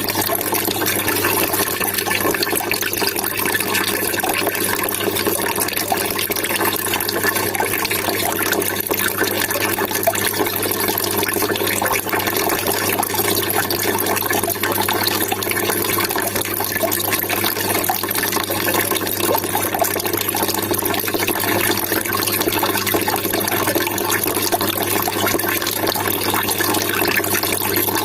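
Steady trickling, splashing water running without a break.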